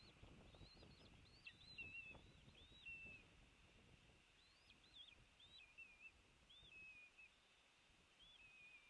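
Faint, rapid run of high bird chirps, several a second, each note rising and then dropping to a short flat tail. A low rumble runs under the first few seconds.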